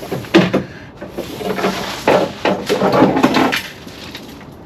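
A man grunting with effort while handling a heavy car body panel, with knocks and scraping as the panel is lifted free of the car.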